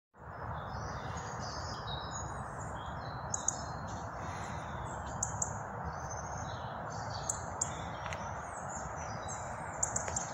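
Small birds chirping over a steady rushing background noise, with a few sharp clicks, some in pairs.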